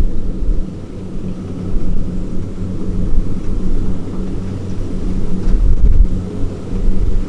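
Diesel engine of rice-harvesting farm machinery running steadily, with deep low rumbles swelling at the start and again about five and a half seconds in.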